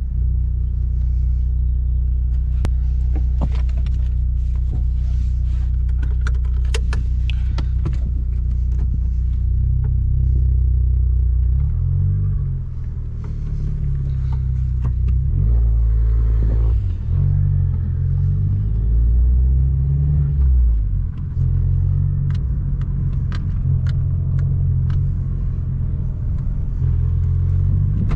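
Tuned Abarth 595 Competizione's 1.4-litre turbocharged four-cylinder with a full 60 mm free-flowing exhaust, running near idle with a low, steady note. Partway through, the engine note steps up and down several times, and sharp clicks come in the first several seconds.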